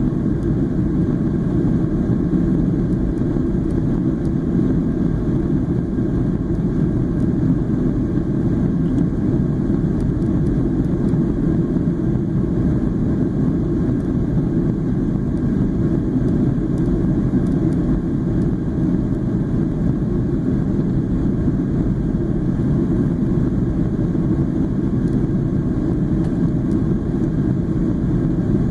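Steady, even rumble of a Boeing 737-800 in flight, heard from inside the cabin: airflow and engine noise, with no changes in pitch or level.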